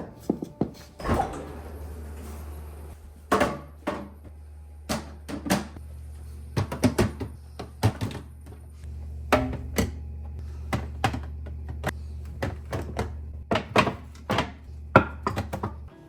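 Plastic organizer bins, containers and food items being set down and moved about on fridge shelves: a string of light knocks and clacks at irregular intervals, over a low steady hum.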